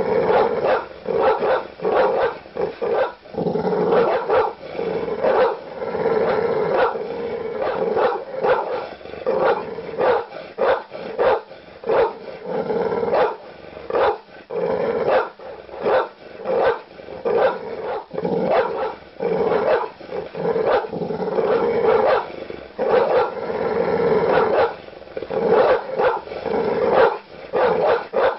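Large dogs barking aggressively in rapid, continuous deep barks, several per second, with growling between them.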